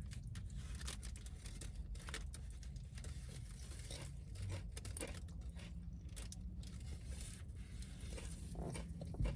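Close-up eating sounds: chewing a crunchy chip, with many irregular soft crunches and crackles.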